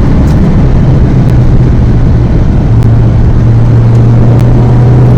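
VW Golf GTI Mk1's four-cylinder engine heard from inside the car, loud and steady under way, its note unsettled for a couple of seconds before settling to a constant pitch.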